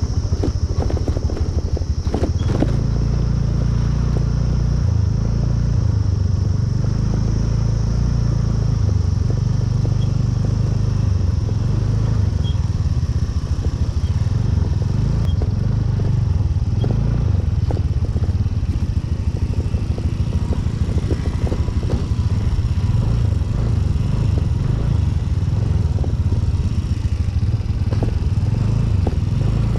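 Motorcycle engine running steadily while riding, with a couple of sharp knocks about two and a half seconds in.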